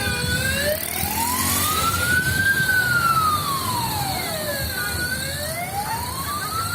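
Emergency vehicle siren on a slow wail, its pitch rising and falling roughly every five seconds, over a low steady rumble.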